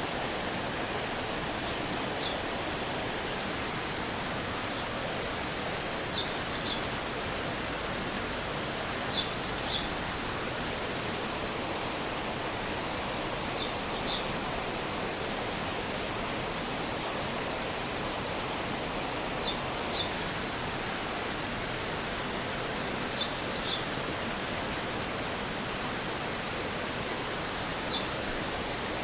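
Stream water flowing steadily, an even rushing hiss. Short high chirps come through every few seconds.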